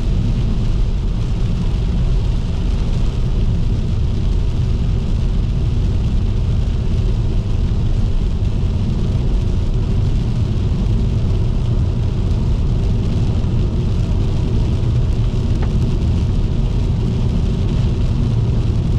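Car driving on a wet road in rain: a steady low rumble of tyres and engine with a rain hiss over it, unchanging throughout.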